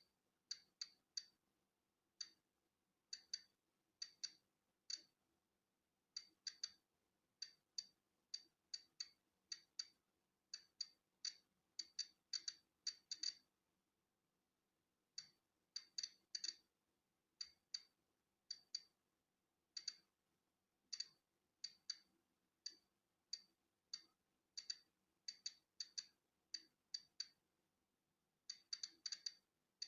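Polon EKO-C digital Geiger counter clicking at irregular, random intervals, sometimes several in quick succession, sometimes with a pause of over a second. Each click is a single detected count of natural background radiation.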